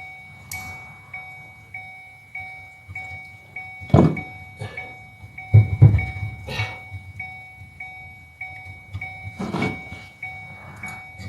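A car's electronic warning chime beeping steadily, about one and a half beeps a second, while several loud knocks and clunks come from work on the seat fittings.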